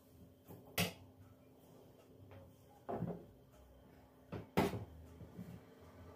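Household handling knocks in a quiet kitchen: three sharp clacks, roughly a second and a half to two seconds apart, the last the loudest, typical of cupboard doors or kitchenware being shut or set down.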